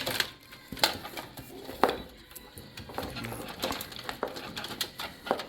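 Scattered clicks and knocks of hands working at a stuck mechanical hard drive inside a metal PC case, a sharp tap every second or so, the loudest about two seconds in.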